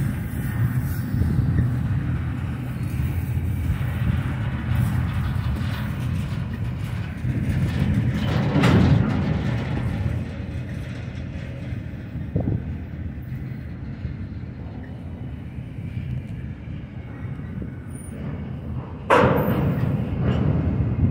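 Double-stack intermodal well cars rolling slowly past: a steady low rumble of wheels on the rails, with a louder surge about nine seconds in and a sudden louder burst near the end.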